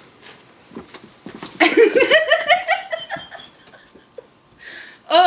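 A woman laughing: a quick giggle of rapid pulses rising in pitch, lasting about a second and a half, starting about a second and a half in, with a few faint clicks before it.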